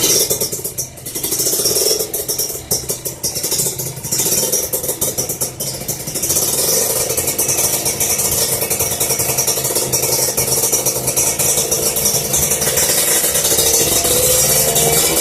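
Kawasaki Ninja 150R two-stroke engine breathing through an AITECH aftermarket exhaust, with a crisp note, its cylinder ported for daily riding. It fires up, runs unevenly and blips for about the first six seconds, then settles into a steady idle, with the revs rising slowly near the end.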